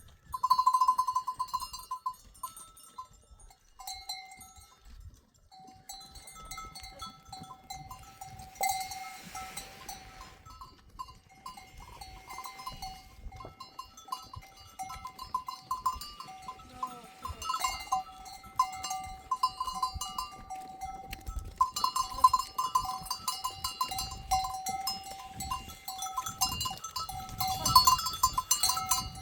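Livestock bells on a herd of goats and sheep, jingling irregularly as the animals move, louder again near the end.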